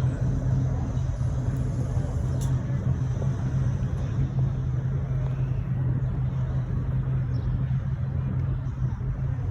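A car engine idling steadily, a loud, even low hum that holds the same pitch throughout.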